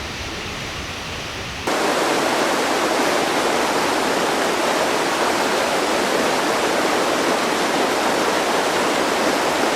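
A fast river rushing: a steady roar of water with no break in it. About two seconds in it jumps suddenly louder and brighter.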